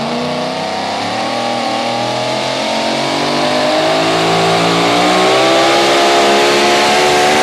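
Super modified four-wheel-drive pulling truck's engine running at high revs under load during a pull, its pitch climbing gradually and getting a little louder partway through.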